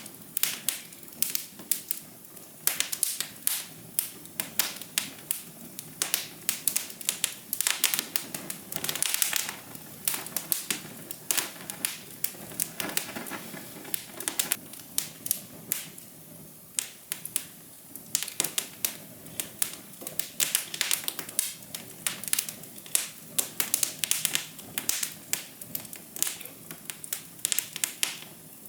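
Wood fire crackling: a soft steady hiss with irregular sharp pops and snaps, several a second, in uneven clusters.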